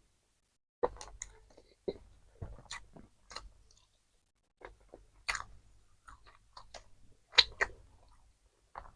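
Close-miked chewing of fast food: a string of short, sharp smacking and clicking mouth sounds with silent gaps between them, the loudest about seven and a half seconds in.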